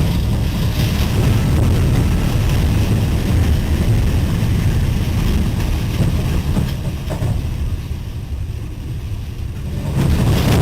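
Loud, steady low rumble of a train running into a tornado, with storm wind. It eases off for a couple of seconds near the end, then comes back up.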